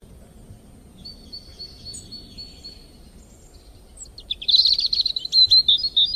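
Birds singing over a low, steady outdoor ambience: thin high calls from about a second in, then a louder run of quick chirps from about four seconds.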